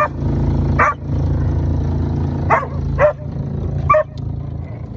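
A dog barking about five times in short, sharp barks, over the steady low hum of the boat's engine running.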